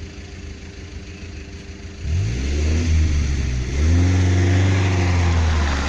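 Off-road vehicle's engine idling, then revving up about two seconds in, easing briefly and revving again to a held high pitch as the vehicle pulls through a muddy rut.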